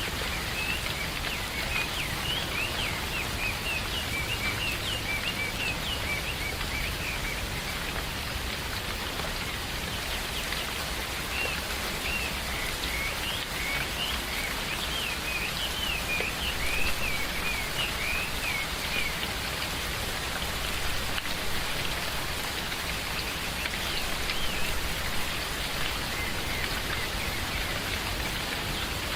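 Steady rain falling, with birds chirping over it in two long runs of short, quick notes, the first near the start and the second about midway, then a few more faintly near the end.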